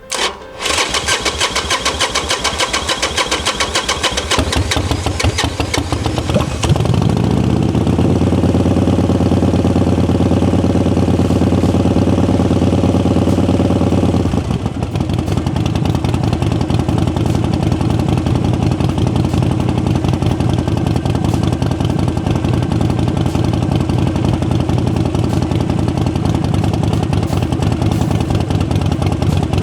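2006 Harley-Davidson Sportster XL1200R's air-cooled V-twin with Vance & Hines Short Shots exhaust, cranked by the electric starter for a few seconds before it catches. About seven seconds in it runs up to a steady raised speed, then drops to a lower, lumpy idle about fourteen seconds in.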